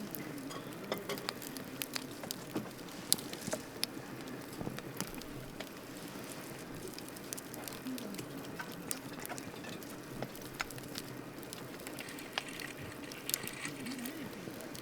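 Wood campfire burning, with irregular sharp crackles and pops over a steady low hiss of the flames.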